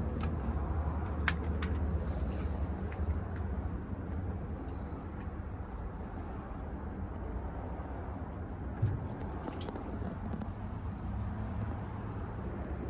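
Steady low rumble of vehicle noise, with a few faint clicks and taps.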